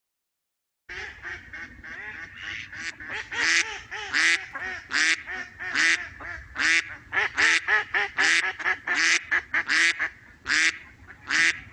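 Recording of ducks quacking: a long run of loud, nasal quacks, several a second, that starts abruptly about a second in after dead silence.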